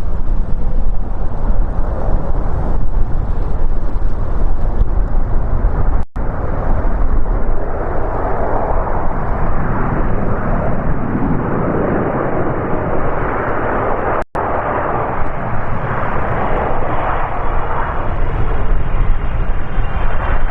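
Jet engines of a Boeing 777 freighter (GE90s) passing close by: a continuous jet noise with a heavy low rumble, swelling in the middle. The sound cuts out twice for a split second.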